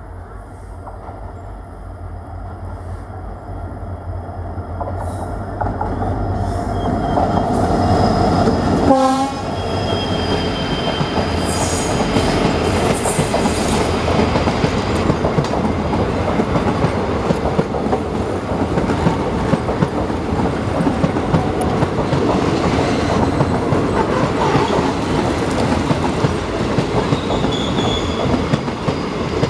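WDP-4D diesel-electric locomotive approaching and passing with a passenger train: the engine rumble builds, the horn sounds and its pitch drops sharply as the locomotive goes by about nine seconds in, then the coaches' wheels clatter steadily over the rail joints.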